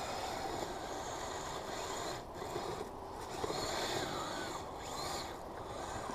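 Kyosho Blizzard RC snowcat driving over snow: its Traxxas 380 electric motors whine and its drivetrain and tracks rasp steadily, easing off briefly a few times.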